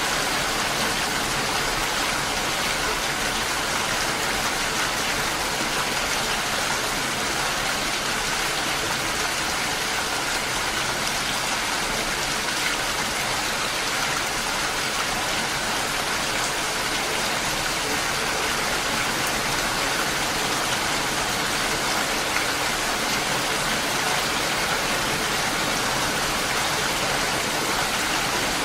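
Steady, even rain falling and pattering on surfaces, with no distinct drops or other events standing out.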